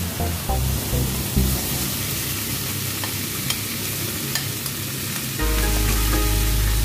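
Garlic and chicken sizzling as they fry in a cast-iron pan, with a spoon stirring the chicken pieces. Background music with a low bass line under it gets louder about five seconds in.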